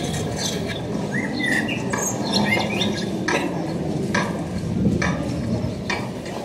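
Small birds chirping in short calls over a steady background, with sharp taps about once a second.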